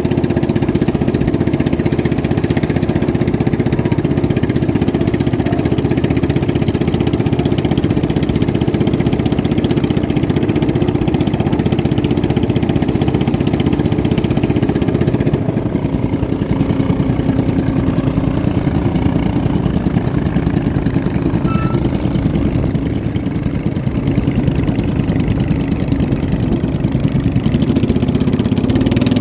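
Boat engine running steadily, easing off slightly about fifteen seconds in.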